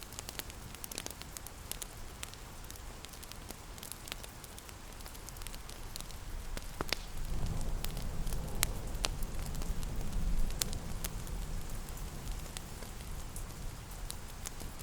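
Wood fire crackling and popping in irregular sharp snaps over a steady hiss of rain. A low rumble swells in about halfway through and eases off again.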